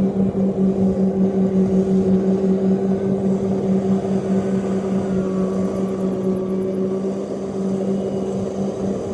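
Rice combine harvester's engine running steadily under work: a loud, even hum with a fast throbbing pulse, easing slightly partway through.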